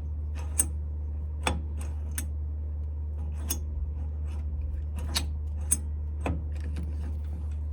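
Light metallic clicks and taps, about seven spread irregularly over several seconds, as small metal tools and parts are handled at a metal lathe. A steady low hum runs underneath.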